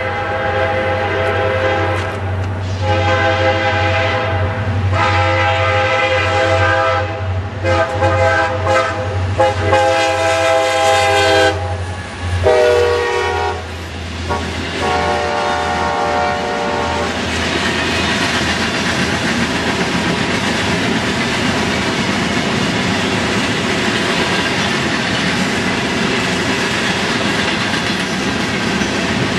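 Diesel locomotive air horn, a CSX SD40-2 leading an SD70M, blowing a series of blasts over the engines' low drone as they near the crossing. Its notes drop in pitch as the locomotives pass about twelve seconds in, and two shorter blasts follow. Then a string of empty steel gondolas rolls by with a steady rumble and rattle of wheels on rail.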